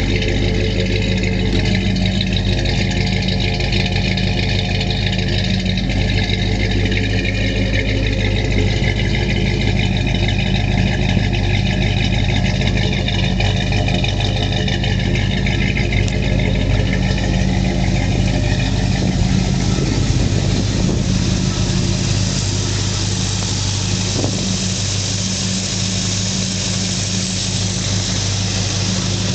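Ford Thunderbird heard from inside the cabin while driving: a steady engine hum with road and wind rush that grows louder and hissier about two-thirds of the way through.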